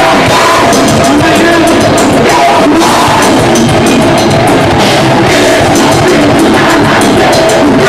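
Live metalcore band playing loudly: distorted electric guitars and a pounding drum kit, with a voice singing over them.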